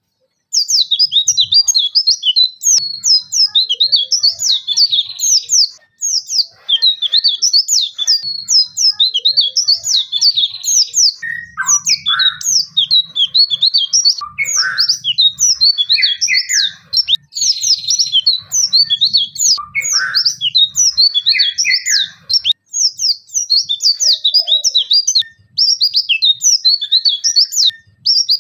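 White-eye (pleci) singing without a break: a fast, unbroken run of high, sharp, falling chirps with hardly a pause between phrases. This is the rapid 'nembak-nembak' song that bird keepers prize in a bird in full voice.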